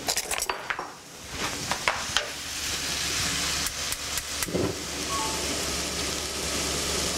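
Ground lamb sizzling in a wok over a gas burner, a steady hiss, with a metal spoon clinking and scraping against the wok in the first couple of seconds.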